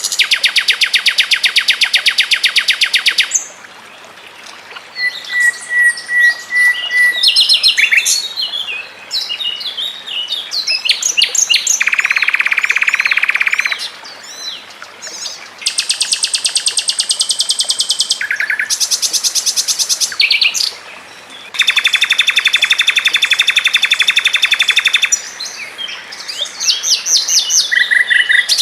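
Songbird song in a fast, dense run: long rapid trills of repeated notes, each a few seconds long, alternating with varied short chirps and whistles and brief pauses.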